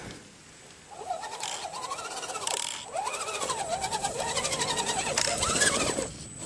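Electric motor and geartrain of a Redcat Gen 7 RC rock crawler whining under throttle, the pitch rising and falling again and again as it is eased on and off while the truck crawls over obstacles. It starts about a second in, after a short quiet spell, and dips briefly near the end.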